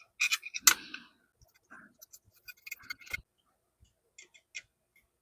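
Light, irregular clicks and small scrapes of a small screwdriver driving little screws into the microscope's housing, with two sharper clicks, one near the start and one about three seconds in.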